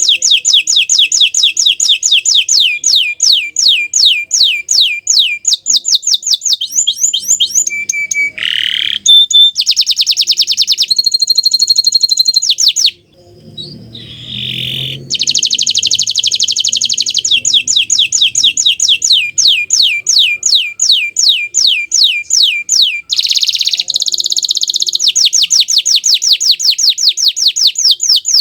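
Bottle-green domestic canary singing: long, rapid trills of repeated down-sweeping notes, with a short break about halfway through before the trilling resumes.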